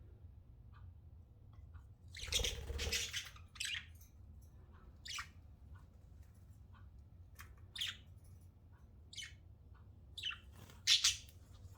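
Pet budgerigars chirping and squawking in short, scattered calls, with a louder cluster about two seconds in and a sharp loud call near the end.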